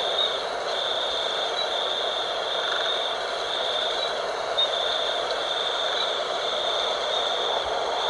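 Night-time outdoor ambience: a steady rush of wind with a high insect trill that comes in pulses about once a second.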